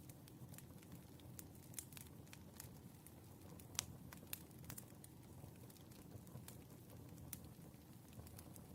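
Wood fire crackling softly: irregular small pops and snaps over a low steady rumble, with one sharper crack a little under four seconds in.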